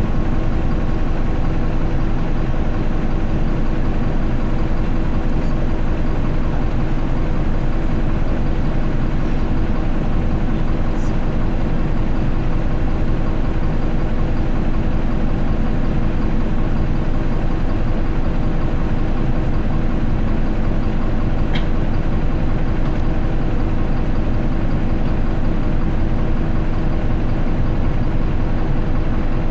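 Isuzu Erga city bus's four-cylinder turbo-diesel idling steadily, heard from inside the bus, with no rise or fall in engine speed.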